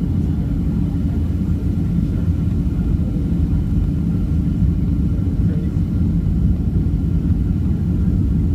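Steady low rumble of engine and airflow noise heard inside the cabin of a Boeing 757-300 airliner in flight on approach, with a faint steady whine above it.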